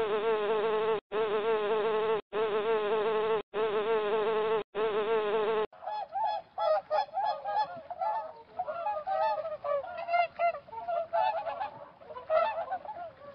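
A steady, wavering buzz sounds five times, about a second each with short gaps. About six seconds in it gives way to a flock of geese honking, many short overlapping calls.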